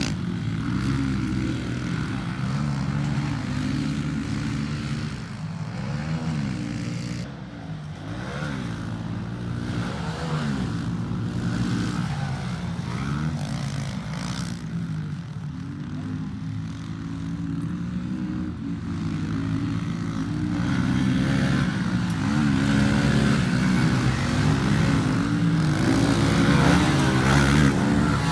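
Pit bike engine being ridden around a dirt track, its revs rising and falling over and over through the throttle changes, getting louder in the last several seconds.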